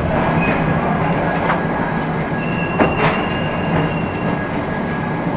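Train running on the rails with a steady rumble. A couple of sharp clicks from the wheels and track come through, and a thin high squeal lasts about two seconds in the middle.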